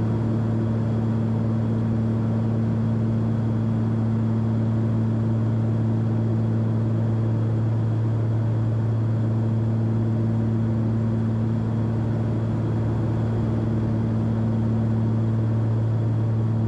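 Cockpit drone of a Cessna 340's twin piston engines and propellers in steady level cruise: an even, unchanging hum with a strong low tone and its octave above.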